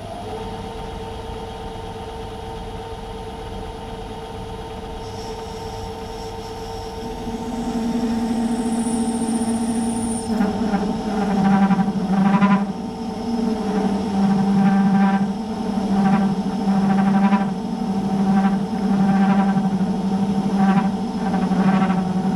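Myford lathe running under power, its drive giving a steady whine. About seven seconds in a lower hum joins, and from about ten seconds in the cutting tool bites into the metal face, adding an uneven, pulsing cutting noise.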